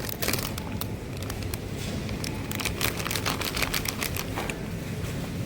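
A run of light clicks and rustles of things being handled, thickest in the middle, over a steady low background hum.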